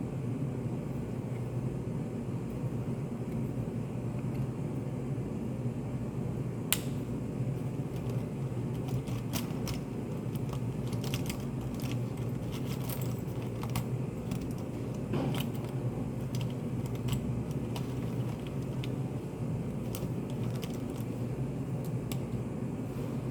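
Study-cafe room ambience: a steady low hum with scattered light clicks and taps on top. One sharper click comes about seven seconds in, and a run of small clicks falls in the middle.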